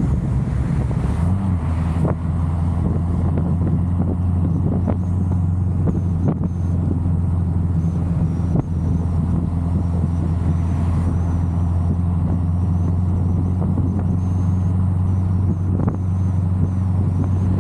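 Big-cam LS7 V8 of a C6 Corvette Z06 running at steady revs, a deep even drone that strengthens about a second in and then holds. Wind noise buffets the microphone over it.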